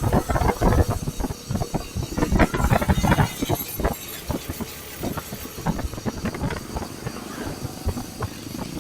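Motorcycle riding along with wind buffeting the microphone in irregular gusts, heaviest in the first few seconds and easing after that.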